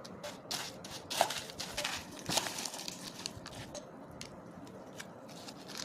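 Irregular crisp crackling and rustling, with sharp clicks, from the dry Fatafat Bhel snack being handled. It is busiest in the first half and thins out towards the end.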